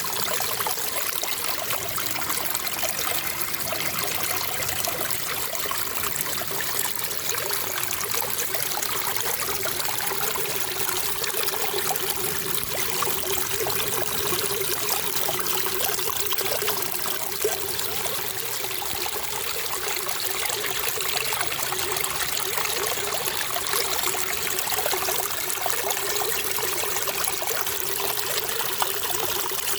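Water trickling and flowing steadily, with no pauses or changes.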